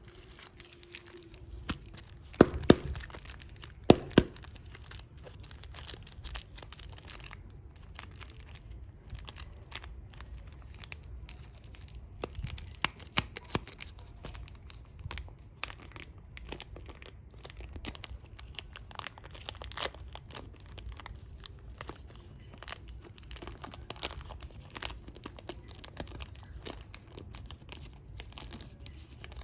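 Plastic packaging of super clay packs being torn open and crinkled: a run of crackles and rustles, with a few sharper snaps about two to four seconds in.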